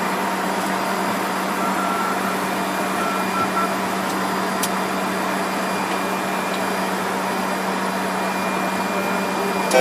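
Steady cockpit noise of a Fokker 100 airliner in flight: the rush of airflow and air conditioning with a steady low hum. Faint short high beeps come twice in the first few seconds.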